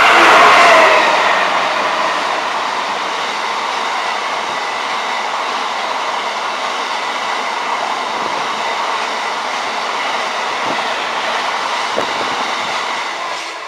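Freight train hauled by a Class 66 diesel locomotive passing through the station. The locomotive goes by loudest at the start, its tone dropping in the first second, then the wagons roll past as a long steady rumble and rattle that eases off near the end.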